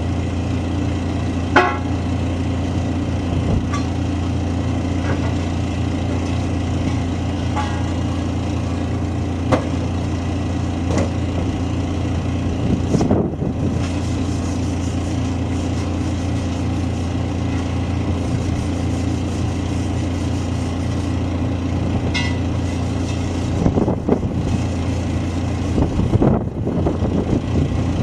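Engine idling steadily, with a handful of scattered metallic knocks and clanks from the tyre work.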